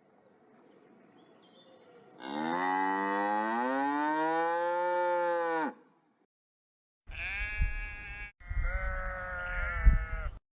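A cow mooing once in a long, drawn-out call whose pitch rises slightly and then drops as it ends. A few seconds later, wavering bleating calls come in over a low rumble.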